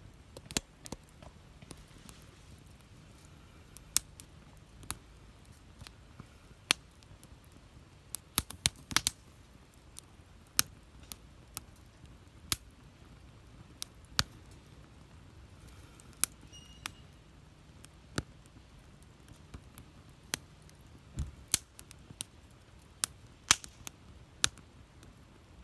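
Firewood burning in a campfire, crackling and popping with sharp, irregular snaps, sometimes several in quick succession.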